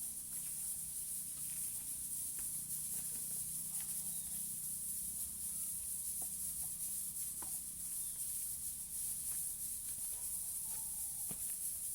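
Steady high-pitched hiss over a low hum, with scattered faint clicks and short chirps from parrots.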